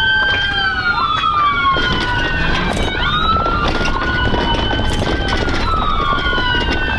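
Two police sirens wailing at once, their pitches gliding slowly up and down out of step and crossing each other, over a steady rush of road noise.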